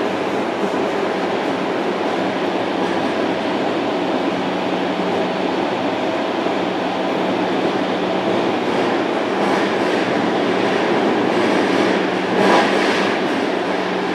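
Running noise of a JR Kyushu 305 series electric train, heard from inside the motor car: a steady, dense rumble of wheels and motors with a constant low hum. About twelve seconds in there is a brief, louder swell of noise.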